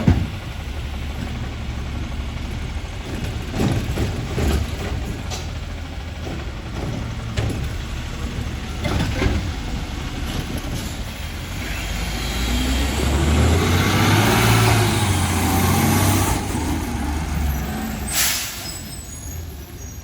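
Garbage truck's diesel engine running, revving up and back down for several seconds past the middle, with a sharp air-brake hiss near the end.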